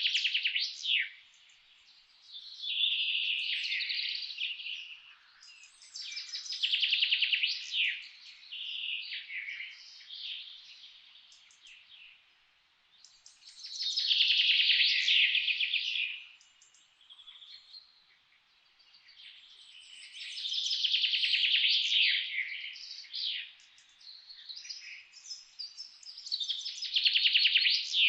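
Songbirds singing: about seven rapid, trilling song phrases, each roughly two seconds long, with softer chirps between them.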